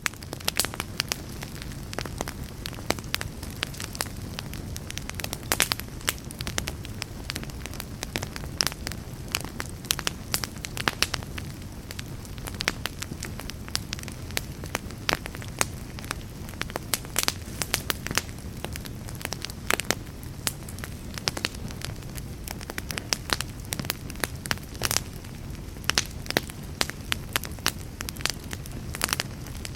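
Wood fire of burning logs in a fireplace crackling, with frequent sharp pops over a steady low rumble of the flames.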